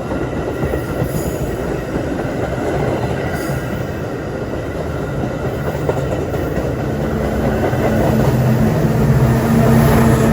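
A train running by on the tracks, a dense steady rumble. In the last few seconds a low steady engine drone comes in and the sound grows louder.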